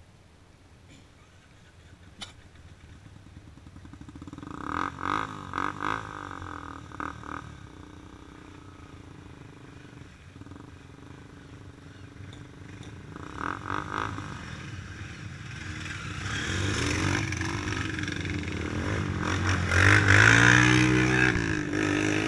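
Motorcycle engine drawing closer and getting louder, with a few short beeps about five seconds in and two more later. It passes close near the end, its engine note sweeping in pitch.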